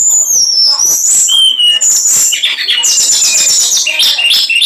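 Small songbird singing loudly and without pause: high whistled notes, a falling glide near the start, then fast trills and sharp chattering notes.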